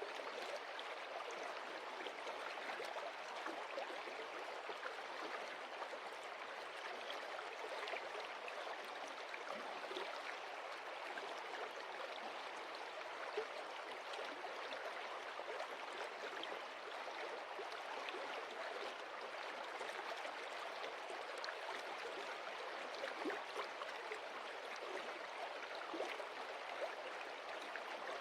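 Stream water running and splashing over stones, a steady rushing with many small splashes.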